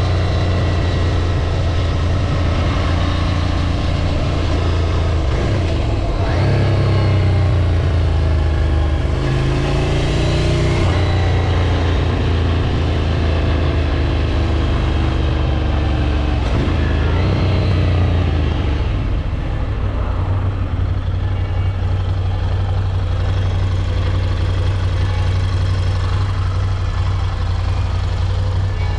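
Ducati Scrambler 803 Nightshift's air-cooled L-twin engine under way while riding, its note rising and dipping a few times with throttle and gear changes.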